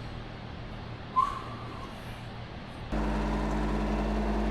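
A short squeak about a second in, then about three seconds in a diesel engine idling cuts in abruptly and runs steadily, most likely the mini excavator's Yanmar diesel.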